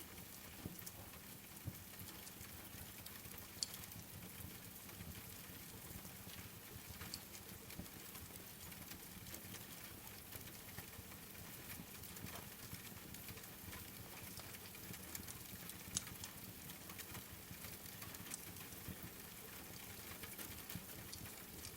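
Faint steady rain with a wood fire crackling, sharp pops scattered through it and two louder pops, one about three and a half seconds in and one about sixteen seconds in.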